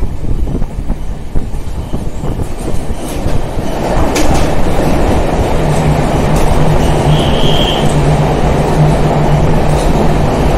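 Passenger train running on rails, heard from inside the coach, with a few sharp wheel clicks. About four seconds in, the running noise swells into a louder, fuller rumble as the train enters a long tunnel, then holds steady with a low hum and a brief high-pitched squeal near the middle.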